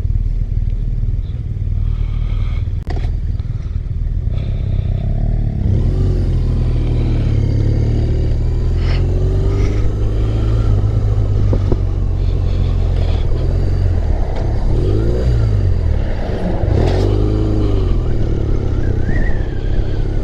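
BMW R1200R boxer-twin motorcycle engine running under way, its pitch rising and falling with the revs as the bike pulls off and changes speed, over a steady low rumble.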